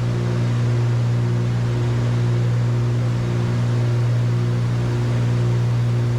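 Cessna 310Q's twin six-cylinder piston engines and propellers droning steadily, heard inside the cockpit in flight, with a slow regular pulsing in the drone.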